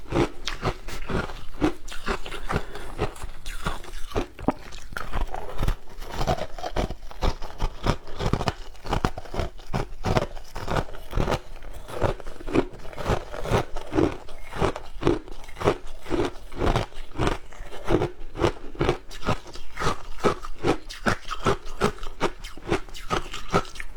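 A person biting and chewing ice: a quick, steady run of crisp crunches, a few every second, that goes on without a break.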